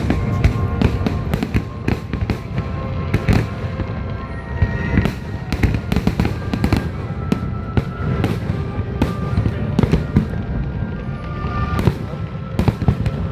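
Aerial fireworks in a finale barrage: many bangs and crackles a second over a continuous low rumble, with music playing underneath.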